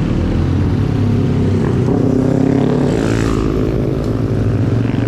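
Busy street traffic: motor vehicle and motorcycle engines running close by, one engine rising in pitch about two seconds in as it speeds up.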